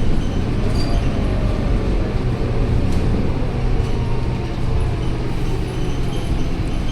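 Scania K230UB single-deck bus running, a steady low engine and road rumble.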